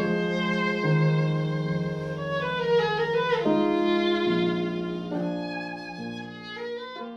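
Viola played with the bow in a slow passage: sustained notes that change about once a second, with a sliding pitch change near the middle, growing softer toward the end.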